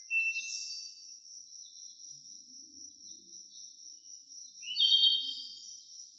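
Forest ambience: insects trilling steadily at a high pitch, with two louder bird calls, one just after the start and one about five seconds in.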